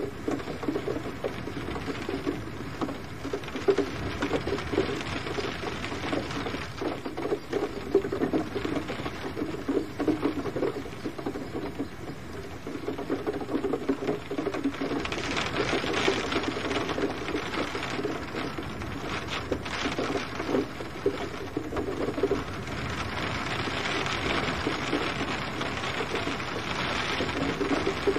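Steady gentle rain pattering, full of fine drops, its hiss swelling for a few seconds midway and again near the end.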